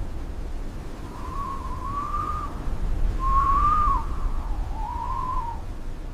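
A thin, wavering whistle around one pitch in three phrases, the middle one dipping at its end, over a steady low rumble.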